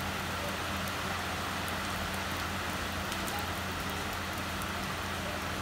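Steady rain falling on wet paving, with scattered ticks of individual drops and a low steady hum underneath.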